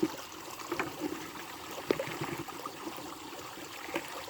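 Water trickling and running steadily, with a few short clicks, the sharpest about two seconds in.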